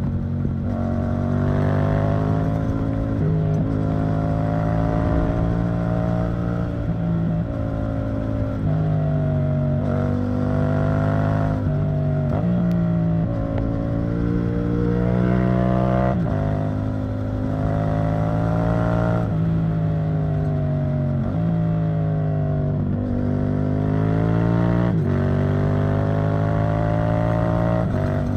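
Yamaha MT-07's 689 cc parallel-twin engine running through an Arrow Thunder titanium exhaust under way. The engine note shifts in pitch every few seconds as the throttle opens and closes and the gears change.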